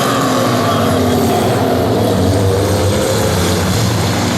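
Figure-eight race car engines running at speed around the track, their pitch wavering up and down as the cars accelerate and back off.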